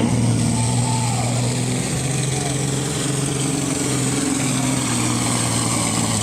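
Tractor engine running steadily at an even, low speed.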